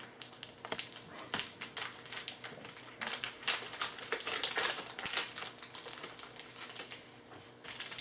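Trading cards and their pack wrapper being handled: a dense run of quick clicks and crinkles that thins out near the end.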